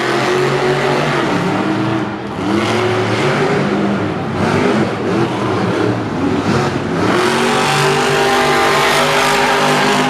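Monster truck engines revving hard, their pitch climbing and dropping several times, then held high for the last few seconds.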